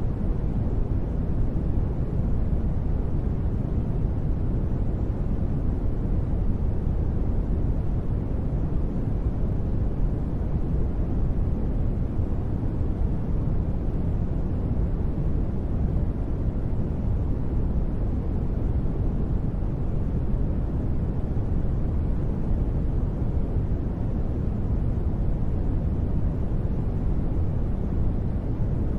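Continuous sleep noise: an even, unchanging rush with most of its weight deep and low and little high hiss, more like a soft rumble than a bright hiss, with no sudden sounds.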